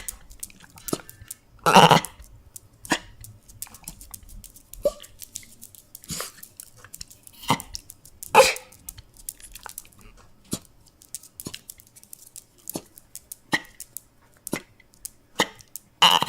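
A dog making irregular short clicking and smacking mouth sounds, with a few brief louder bursts.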